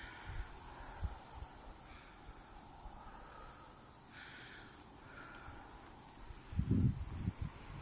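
Steady high-pitched chirring of insects in summer forest, with a few faint bird calls in the middle. A brief low rumble near the end is the loudest thing.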